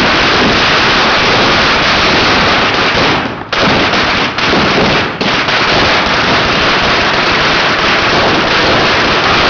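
A string of celebration firecrackers going off in a loud, continuous rapid crackle, with a few brief dips about halfway through.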